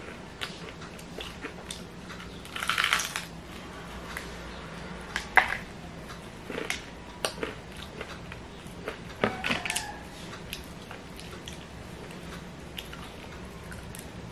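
Close-miked chewing of crispy KFC fried chicken: crackling crunches of the breading about 3 s in, a sharp loud crunch about 5 s in and another burst about 9 s in, with softer chewing clicks between.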